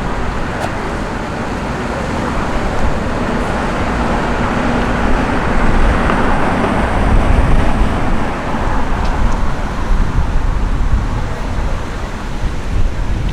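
Street traffic: a steady mix of car engines and tyre noise with a deep rumble, growing louder around the middle as vehicles pass close.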